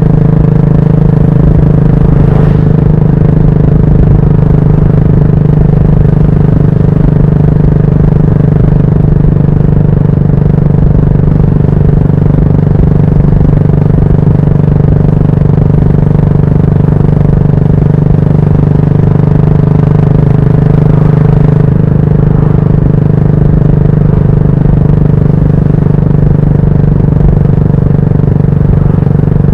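Yamaha SR400's air-cooled single-cylinder engine breathing through a GOODS tapered cone aftermarket muffler, running steadily while ridden, with a slight change in engine note about three-quarters of the way through.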